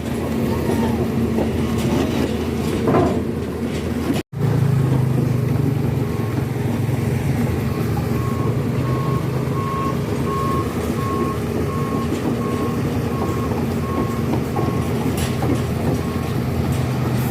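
Heavy truck engine running steadily, with a reversing alarm beeping at an even pace over it.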